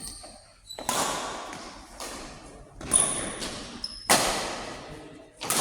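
A doubles rally: five sharp hits a little over a second apart, each ringing on in a large hall, with short high-pitched shoe squeaks on the court floor between them.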